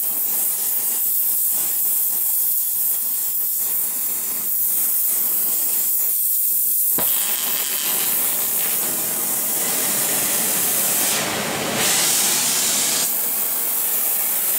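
Oxy-acetylene torch flame hissing steadily, then a sharp pop about seven seconds in, after which the hiss turns louder and rougher. The torch tip was not screwed all the way in.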